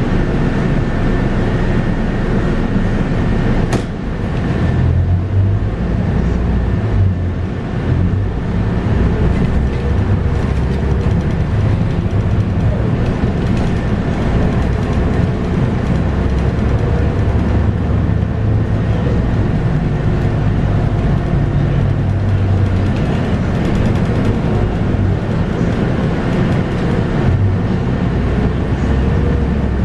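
Scania K230UB bus under way, heard from on board: its 8.9-litre five-cylinder Scania DC9 diesel and ZF Ecomat six-speed automatic gearbox run with a steady low drone over road noise. There is a sharp click about four seconds in, and the engine note rises slowly near the end.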